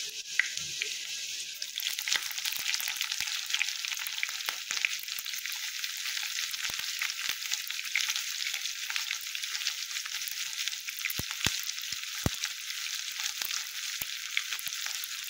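Chopped garlic and onion frying in hot refined oil in a kadai, sizzling and crackling steadily as the garlic browns. A few sharp clicks stand out about two-thirds of the way through.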